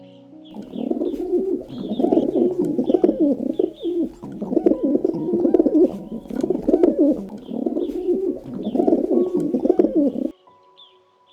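Low bird calls in repeated bouts, with faint high chirps from small birds; it all cuts off suddenly near the end.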